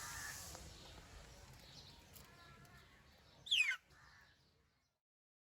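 Aseel chick calling: faint short cheeps, then one loud, high peep that falls steeply in pitch about three and a half seconds in. The sound then cuts off abruptly.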